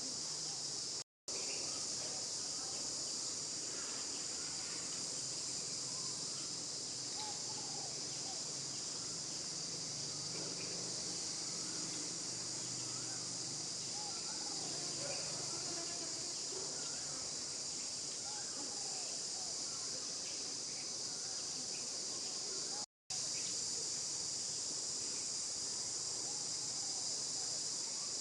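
Steady, high-pitched chorus of insects such as crickets or cicadas. The sound cuts out completely for an instant twice: about a second in, and again near the end.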